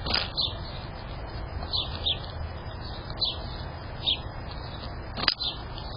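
A small bird chirping: short, high chirps, often in quick pairs, repeating about once a second, over a low steady rumble.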